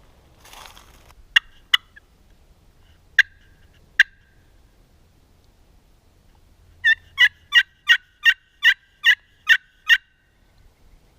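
Turkey clucks, then a run of about nine evenly spaced yelps, roughly three a second. A short rustle comes at the very start.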